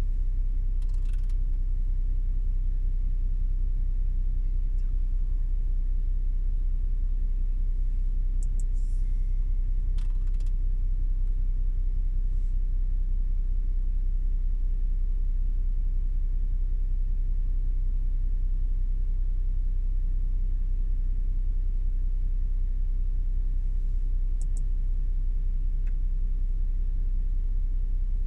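Audi S7 engine idling, a steady low rumble heard from inside the cabin.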